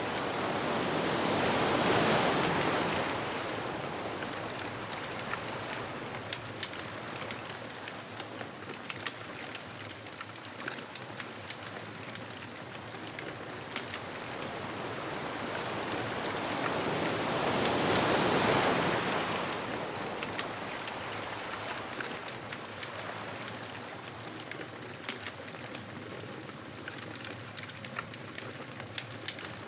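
Ocean waves breaking on a beach: two slow swells of surf, about two seconds in and again near the middle, over a continuous wash. Frequent small sharp pops and crackles of a bonfire run throughout.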